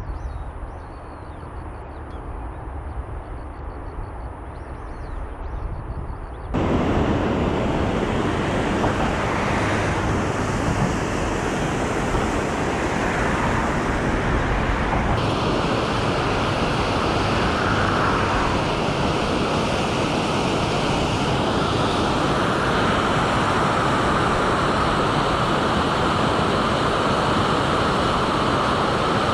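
Steady loud rushing of a river swollen with floodwater, starting suddenly about six seconds in after a quieter stretch.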